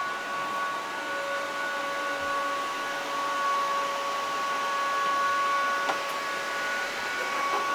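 Steady whine of several held tones over a hiss from the Audi RS Q e-tron rally car's electric drive system, with a sharp click about six seconds in.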